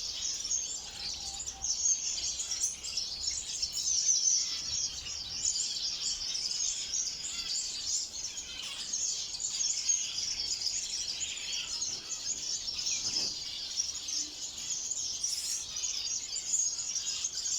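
Many small aviary finches chirping and twittering at once, a dense, continuous, high-pitched chatter of overlapping calls.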